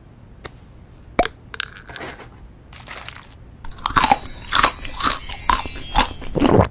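Crunchy food being bitten and chewed close to the microphone: a few separate crunches at first, then dense, loud crunching from about halfway through.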